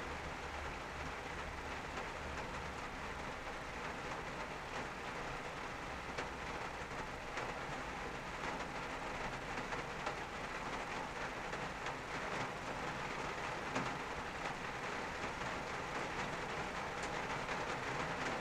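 Rain falling on a car's roof and windscreen, heard from inside the cabin: a steady patter with many small drop ticks.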